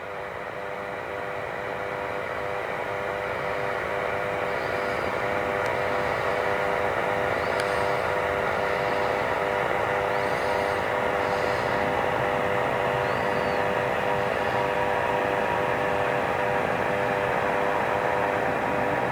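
Aircraft engines running, with a steady hiss and several held tones; the sound grows louder over the first few seconds, then holds steady.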